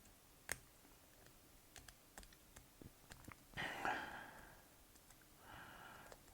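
Faint small clicks and ticks of a lock pick working the pins of a pin-tumbler doorknob lock under tension, with one sharper click about half a second in. Two short, soft scraping sounds follow, about four seconds in and near the end.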